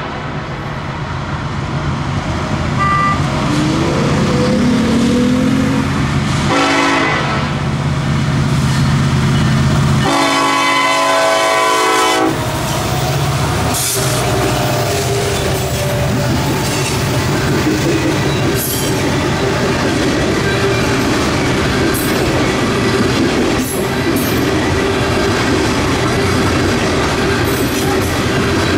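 Loaded coal train behind BNSF diesel locomotives passing: a short horn blast about seven seconds in and a longer one about ten seconds in, then the steady rumble and clatter of the loaded hopper cars rolling by, with a faint wheel squeal.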